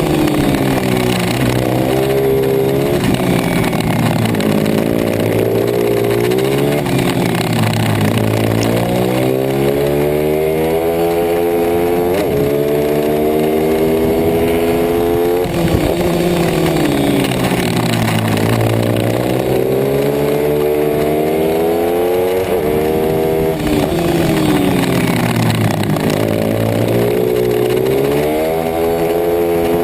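Racing pit bike's single-cylinder engine under load, its pitch sinking as the bike slows and climbing again as it accelerates, several times over.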